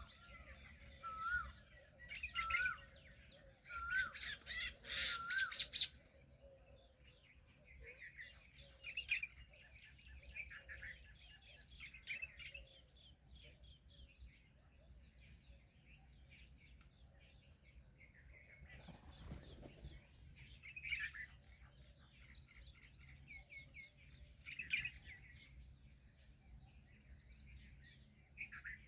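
Small birds chirping and twittering, with a short whistled note repeated about every second and a half during the first six seconds, and a brief rustle about two-thirds of the way in.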